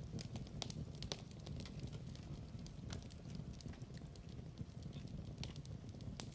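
Log fire crackling: irregular sharp pops and snaps over a steady low rumble of the flames.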